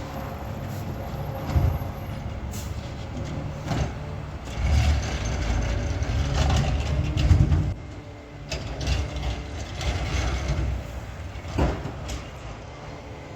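Peterbilt 520 garbage truck with a McNeilus ZR body, its engine running and growing louder for about three seconds in the middle, with a few sharp knocks and clanks from the truck's equipment.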